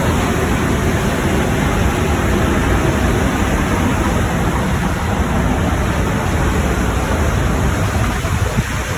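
Strong storm wind blowing hard on the microphone: a loud, steady rush, heaviest in the low range, easing slightly near the end.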